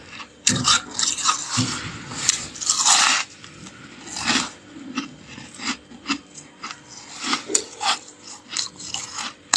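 Freezer frost being bitten and chewed: a run of crisp crunches, densest and loudest a little under three seconds in, then scattered single crunches.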